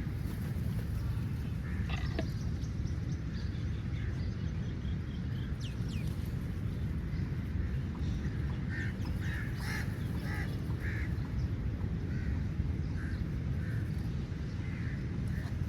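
Crows cawing, a quick run of short harsh calls in the middle with scattered calls before and after, over a steady low rumble.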